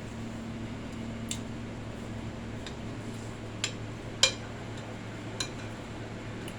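Cutlery clicking sharply against a plate four times during eating, the loudest click about four seconds in, over a steady low fan hum.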